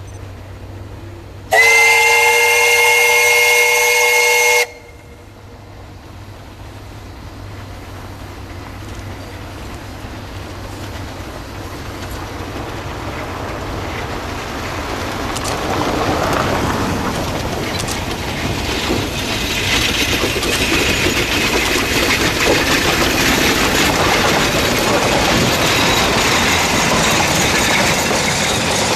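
A C2 narrow-gauge steam locomotive's steam whistle sounds once for about three seconds. Then the train's running noise builds steadily louder as it approaches, and stays loud near the end.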